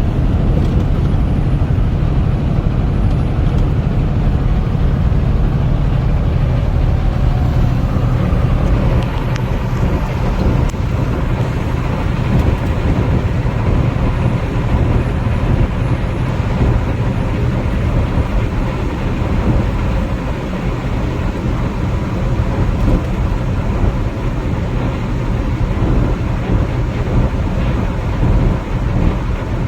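Steady engine drone and road noise inside a semi-truck cab at highway cruising speed, heaviest in the low rumble, with a faint steady tone above it.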